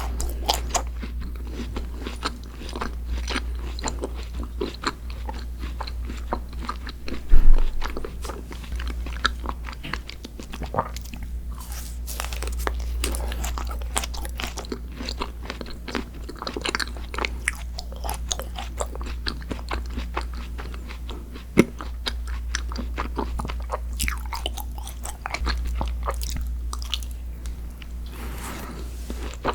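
Close-miked eating: a person biting into and chewing crunchy sweets, a dense run of crisp crunches with one much louder bite about seven seconds in, over a low steady hum.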